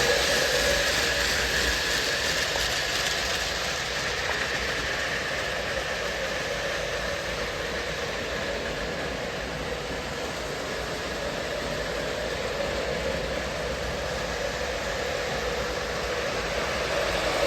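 Lionel O scale model train, two Dash 8 diesel locomotives pulling a string of tank cars, running steadily on the track with a continuous rumble of wheels and motors. It grows quieter toward the middle and louder again near the end as it moves away and comes back around.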